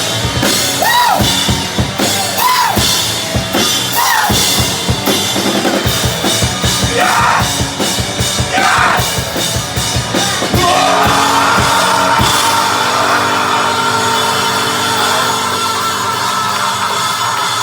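Live rock band playing loud, with drum kit and yelled vocals. About eleven seconds in the drumming stops and a held chord rings on.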